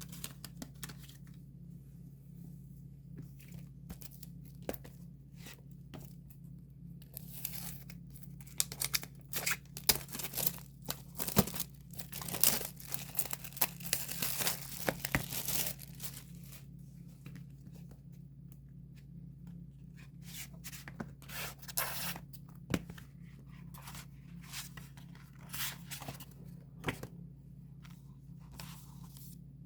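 Plastic wrapping on a K-pop album being torn open and crinkled by hand, in irregular rustling bursts that are busiest in the middle. A steady low hum runs underneath.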